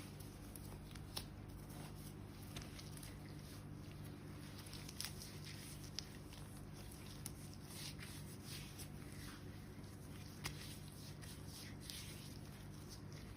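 Soft, irregular rustling with small crackling clicks from hands working dead skin off bare feet, over a faint steady low hum.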